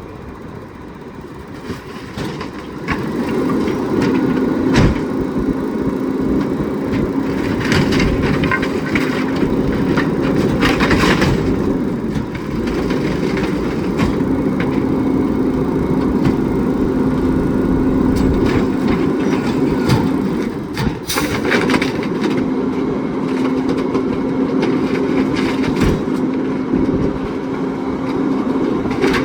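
McNeilus rear-loader garbage truck's packer compacting bulky waste: a steady machine whine that breaks off now and then, with loud cracks and snaps of wood breaking as the items are crushed, several times.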